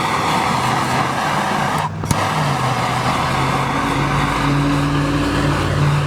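Blowtorch flame running as weathered bird-feeder wood is lightly scorched to seal it. It cuts out briefly about two seconds in, with a click as it comes back, and a low steady hum joins it later.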